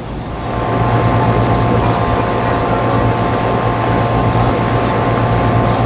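Jet airliner engines running close by, swelling about half a second in and then holding a steady, loud drone with a low hum and a few steady whining tones.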